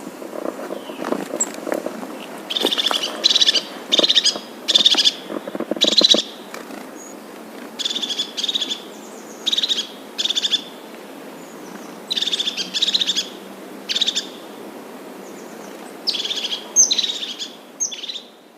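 A bird calling over and over in short, high calls, loosely grouped in twos and threes, with a fainter low-pitched calling underneath during the first few seconds.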